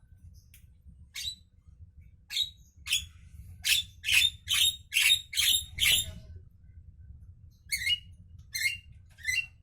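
Javan myna giving short, harsh calls: a quick run of about ten between one and six seconds in, then after a pause a few shorter calls with a downward hook. A faint low hum runs underneath.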